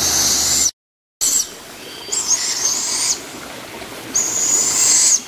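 Fledgling birds of prey giving long, high, raspy screeching calls, about a second each, repeated every second or two: food-begging from young raptors at feeding time. The sound drops out completely for a moment about a second in.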